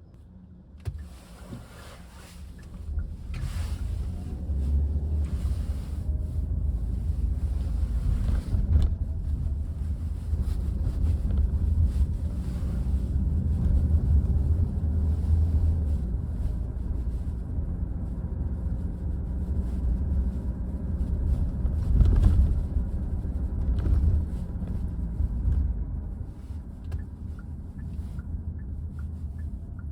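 Low rumble of road and wind noise from a moving car, rising sharply about three seconds in and easing off near the end.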